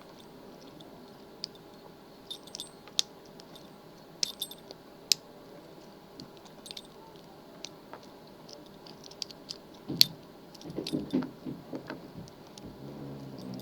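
Small metal clicks, ticks and light rattles of lock picks, a tension wrench and padlocks being handled during lockpicking, with a sharper knock about ten seconds in.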